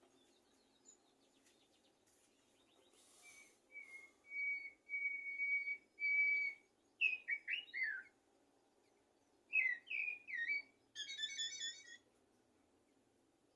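Common blackbird singing: a run of steady whistled notes, then fluty phrases that swoop downward, ending in a short squeaky twitter about a second and a half before the end.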